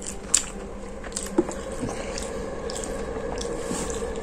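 Close-up mouth sounds of a person chewing and biting a toasted egg-and-ham sandwich: wet smacks and clicks, with a sharp smack about a third of a second in and another about a second later.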